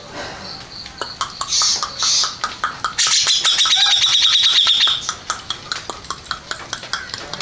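Cucak jenggot (grey-cheeked bulbul) singing: a few short high calls, then about three seconds in a loud, rapid chattering trill lasting about two seconds, followed by scattered ticking notes.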